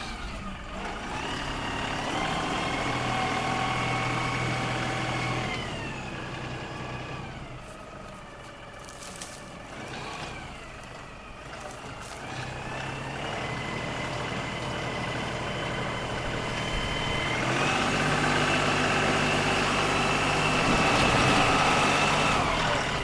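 LS XR3135 compact diesel tractor's engine running up under load while scooping dirt. It speeds up about a second in, drops back around six seconds, climbs again at about thirteen seconds and higher still from about seventeen, then falls off near the end.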